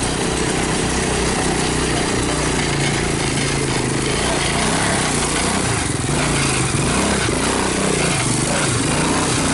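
Motor vehicle engine running steadily while under way, with a constant rushing noise over it.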